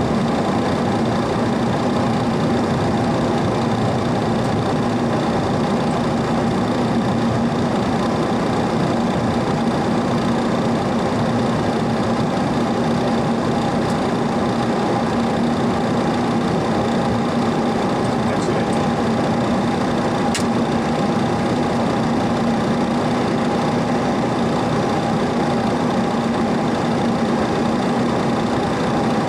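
Steady machine hum and whine inside a parked Boeing 737-300 cockpit with the APU running and the main engines shut down. A single sharp click about twenty seconds in.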